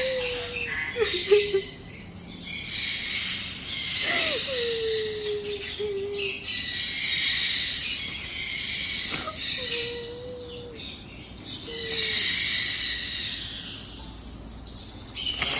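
Small bird chirping rapidly and continuously in high, thin tweets, with a low, smooth, slightly falling note sounding every few seconds, four or five times.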